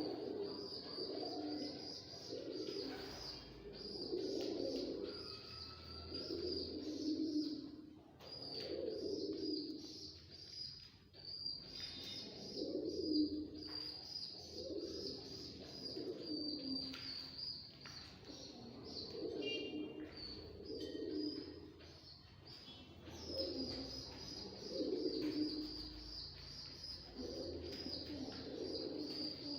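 Domestic pigeons cooing over and over, a low coo every second or two, with a steady high-pitched chirping running behind.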